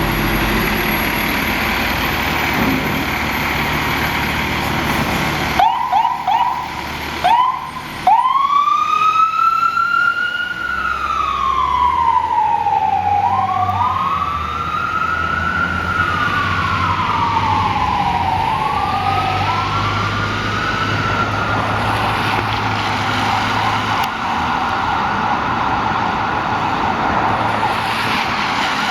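Fire engine siren: a few short chirps about six seconds in, then a slow wail sweeping up and down, with a second siren tone overlapping it, settling into a steadier high pitch later on. The truck's engine runs low underneath.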